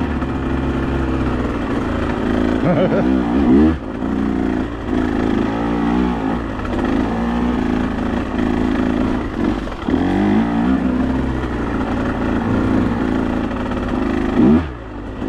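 Motorcycle engine being ridden hard, its pitch climbing and falling as the rider accelerates and backs off the throttle, with short drops about four seconds in and again near the end.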